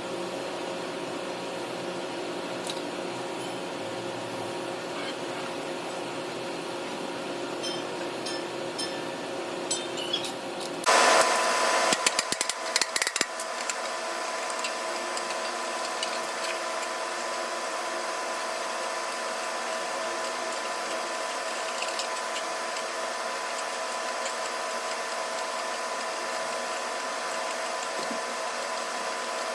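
Steady machine hum with several held tones. About eleven seconds in comes a burst of loud clattering and sharp clicks lasting a couple of seconds, after which the hum carries on at a changed pitch.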